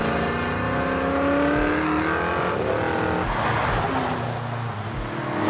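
1967 Shelby Mustang GT500's big V8 accelerating hard, its pitch climbing for about two and a half seconds. The note then drops and climbs again near the end, as after a gear change.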